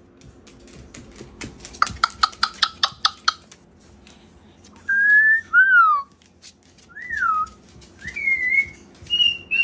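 A quick run of about a dozen clicky chirps lasting about a second and a half, then, from about halfway in, a series of short whistled notes, each one clear tone: a level note, a falling slide, a rise-and-fall, and two higher notes near the end.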